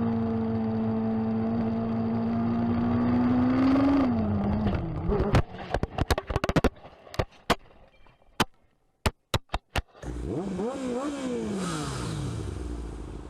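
A motorcycle engine holds steady revs, then drops off. A run of sharp clicks and knocks with near-silent gaps follows, and near the end the engine revs up and down.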